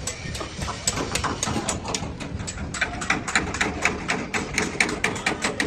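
Light hammering: quick, even knocks about four a second, growing louder after about two and a half seconds.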